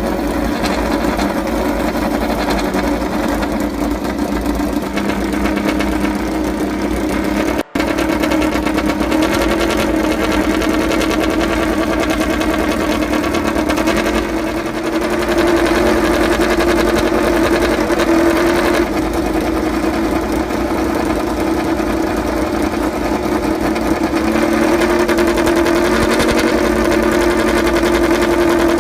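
MotoGP racing motorcycle engine running at high, fairly steady revs, a continuous buzzing drone with small wobbles in pitch. The sound cuts out briefly about eight seconds in.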